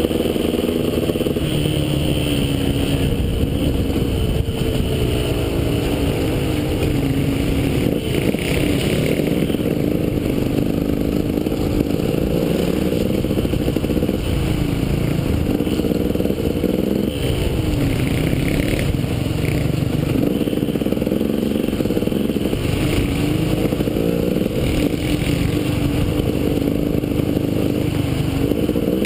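KTM EXC enduro motorcycle engine running continuously on a green lane, picked up close from a camera on the bike. The engine note rises and falls as the throttle is opened and closed.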